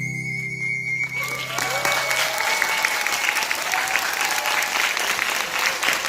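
A soprano C ocarina's final held high note and its sustained accompaniment chord die away in the first two seconds, as audience applause starts about a second in and carries on.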